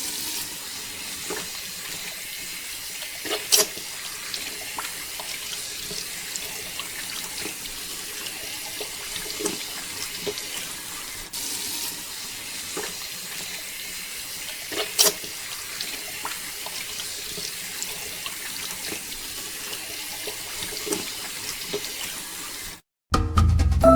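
Steady rush of running water with scattered sharp splashes or knocks, two of them louder. It cuts off suddenly shortly before the end.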